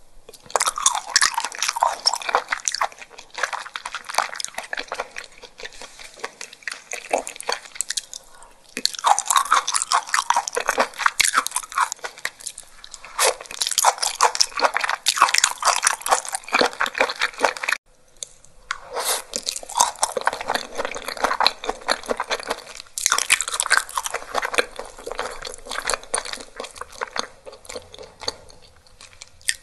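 Close-miked eating: wet chewing of raw shellfish and sashimi, with runs of crisp crunching and crackling between short pauses. The sound drops out briefly about 18 seconds in, then the chewing resumes.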